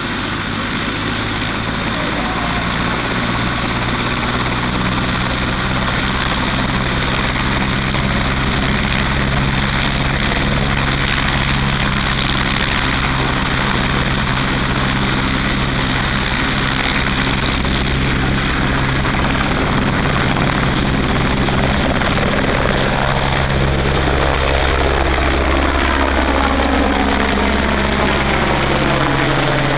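AS350B Ecureuil helicopter taking off: its single turboshaft engine and rotor run loudly and steadily, growing a little louder. Near the end the tone starts to sweep and shift as the helicopter moves.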